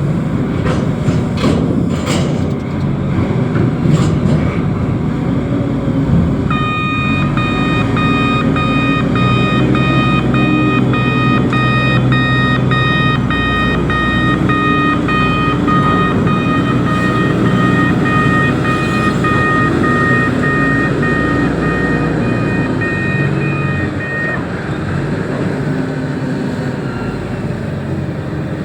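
Reach stacker's diesel engine running, with a few metal knocks in the first few seconds. About six seconds in, its reversing alarm starts beeping quickly, about twice a second, and stops a few seconds before the end.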